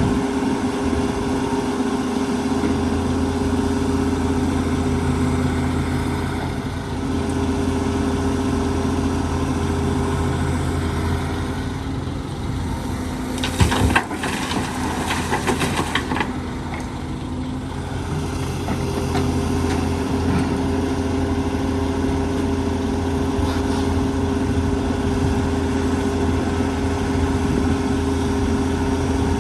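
Excavator's diesel engine running steadily, with a burst of clattering knocks lasting a couple of seconds about halfway through.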